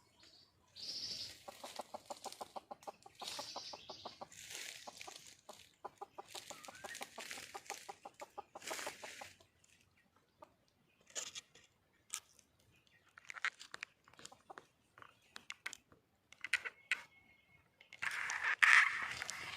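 Red junglefowl hen calling for a mate: a long run of rapid clucks for about eight seconds, then scattered short sounds and a louder, harsher burst near the end.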